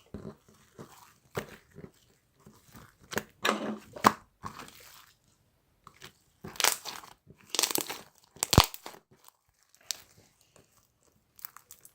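Irregular bursts of crinkling and crunching, like something being crushed or handled up close, with a sharp snap about two-thirds of the way through.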